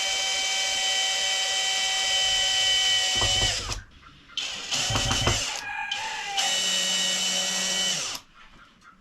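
A small motor, like a power tool's, whining steadily for a few seconds, then stopping and starting again in short runs.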